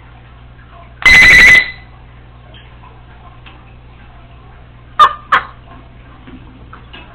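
Congo African grey parrot giving a loud, buzzy, electronic-sounding beep of under a second, about a second in, then two short sharp whistled calls in quick succession about five seconds in.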